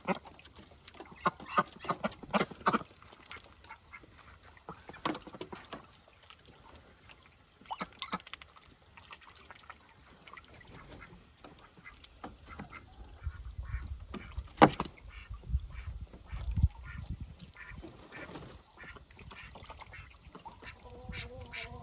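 A flock of chickens clucking and squawking in short, scattered calls, with some low rumbling in the middle of the stretch.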